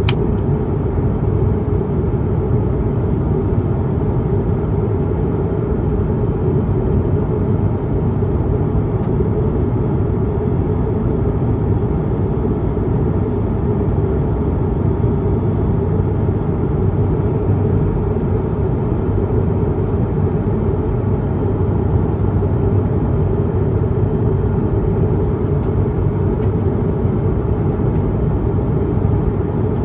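Steady cabin noise inside an Airbus A220-300 climbing: its Pratt & Whitney PW1500G geared turbofans and rushing air heard as an even low rumble, with a faint high steady tone above it.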